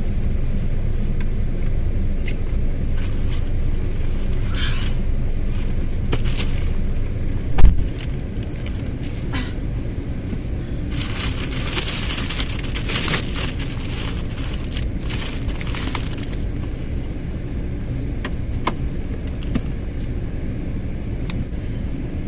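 Steady low rumble inside a car, with one loud thump about seven and a half seconds in and a few seconds of rustling and small clicks in the middle.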